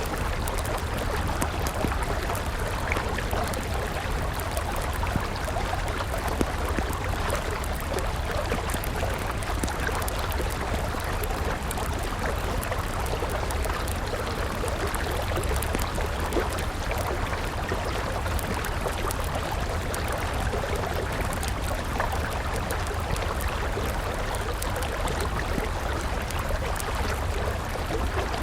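River water flowing steadily, with a wood fire crackling over it in frequent small, irregular pops.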